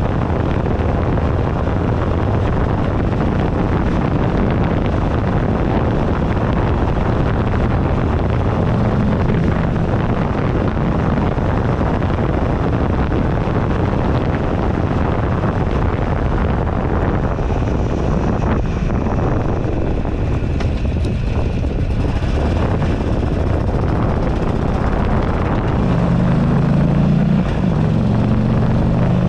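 Wind buffeting the handlebar-mounted camera's microphone at riding speed, over the steady running of a 2008 Buell Ulysses XB12XT's air-cooled V-twin engine. The engine note grows louder near the end.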